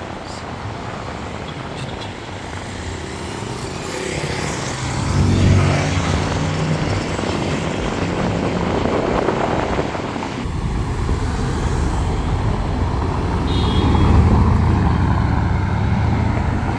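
Supercar engines on a city street, with a low engine note swelling loud about five seconds in. It swells again near the end as a Bugatti Veyron's quad-turbo W16 engine pulls away.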